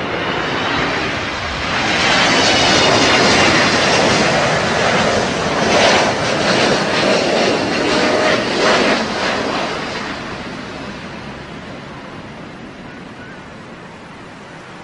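Aircraft flying low past, its engine noise building over the first couple of seconds, loudest with a rough, crackling edge midway, then fading away over the last few seconds as it recedes.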